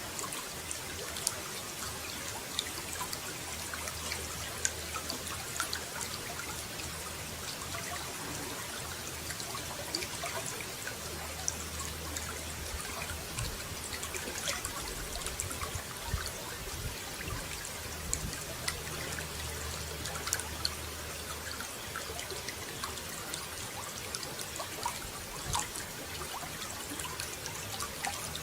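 Water running and trickling steadily, a continuous splashing hiss with many small droplet ticks.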